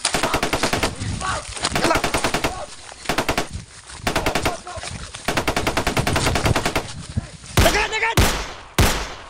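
Bursts of rapid automatic gunfire, about a dozen shots a second, stopping and starting several times. Near the end come a few louder single shots, each with a ringing tail.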